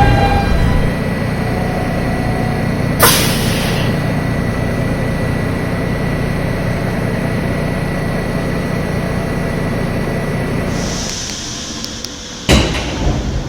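New York City subway G train standing at the platform after braking to a stop: a steady rumble of its equipment, with a short air hiss about three seconds in and a sharp bang near the end.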